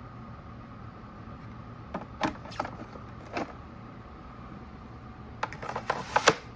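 Clicks and knocks from a Fantom Fury bagless vacuum cleaner being handled, over a steady low hum. A few come about two to three and a half seconds in, then a quick run of them near the end.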